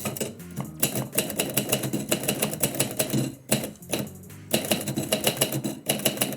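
Typewriter keys struck in quick runs of rapid clacks, with a short pause about three and a half seconds in.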